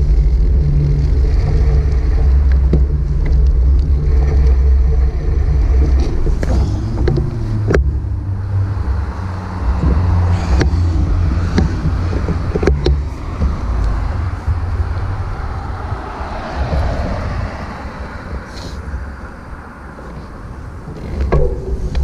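Wind and road rumble on a GoPro action camera while cycling: a heavy low rumble with scattered clicks and rattles. It dies down for a couple of seconds near the end, then rises again.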